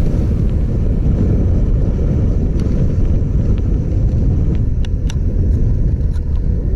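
Motorcycle on the move: a steady low rumble of engine and wind noise on the microphone, with a few faint clicks about five seconds in.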